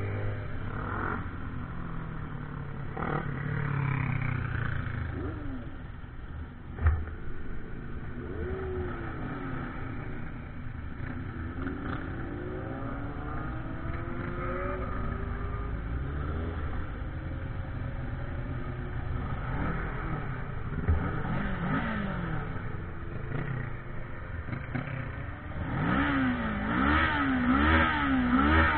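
Motorcycle engine running under way, its pitch rising and falling with the throttle. A sharp knock comes about a quarter of the way in. Near the end the engine gets louder and revs up and down several times in quick succession.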